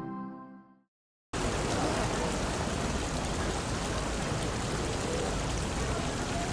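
A music chord fades out in the first second, then dead silence. After that a steady rushing of flowing water, like a stream, starts abruptly and holds.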